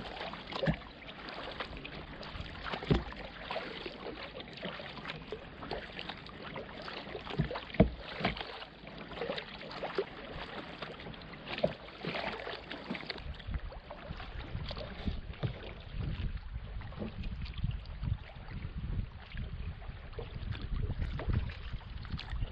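Kayak paddling: irregular paddle splashes and water lapping and dripping against the hull. About halfway through, a low rumble of wind on the microphone joins in.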